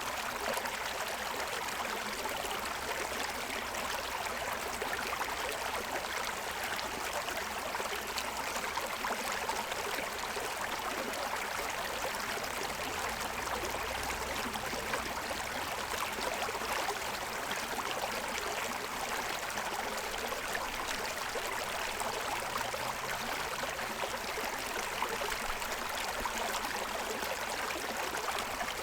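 Forest stream running over the stones of its bed: a steady rush of water with bubbling and trickling.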